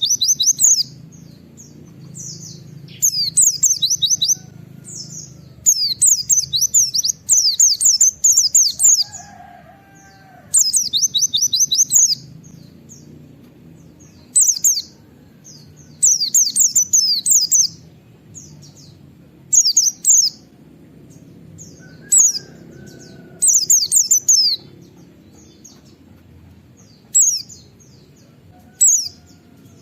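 A white-eye (pleci) singing in bursts of rapid, high, repeated 'wit wit' notes. Each burst lasts a second or two, with short pauses between them. A faint, steady low hum runs underneath.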